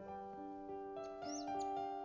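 Soft piano music with slow, sustained notes, and a songbird's short high chirps about a second in.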